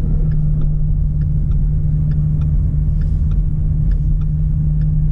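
Car running at low speed, heard inside the cabin: a steady low drone and rumble, with faint, evenly spaced ticking about twice a second.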